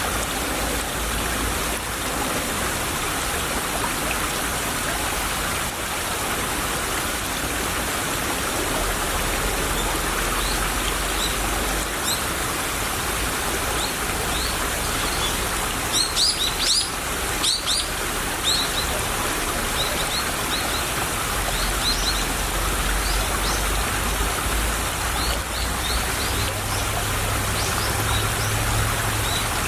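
A small stream babbling steadily over stones, with birds chirping now and then; a quick burst of several louder chirps comes about halfway through.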